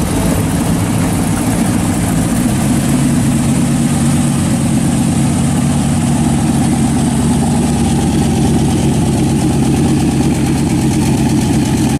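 Hot-rodded Ford Model A sedan's engine running steadily at low speed as the car rolls slowly past. It gets a little louder about three seconds in as the car comes close.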